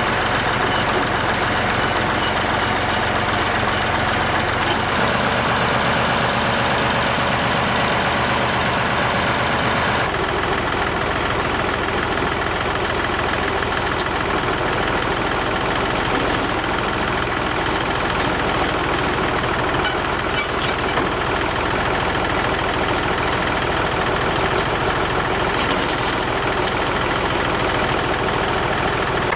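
Massey Ferguson 135 tractor engine running steadily, with sudden shifts in its tone about five and ten seconds in.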